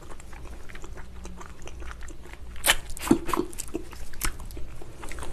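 Close-miked chewing and wet mouth smacks of someone eating gelatinous braised ox foot, with a few sharp smacks in the second half.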